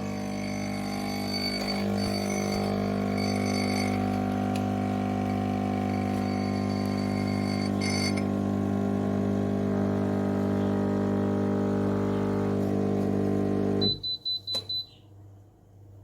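Klarstein 20-bar espresso machine's pump running with a steady hum for about fourteen seconds, then cutting off, followed at once by a quick run of short high beeps from the machine.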